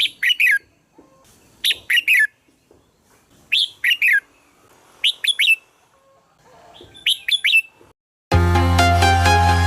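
Red-whiskered bulbul singing: five short, loud phrases of three or four quick whistled notes, repeating about every second and a half to two seconds. Near the end the song stops and electronic music starts abruptly.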